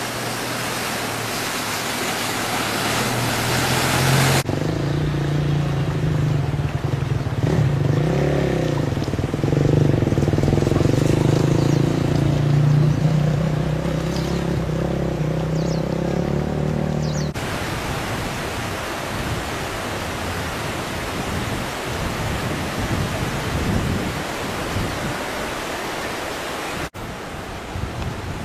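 A steady rushing noise. For about thirteen seconds in the middle, a steady engine hum joins it and is the loudest part; the engine noise then cuts off abruptly and the rushing noise carries on alone.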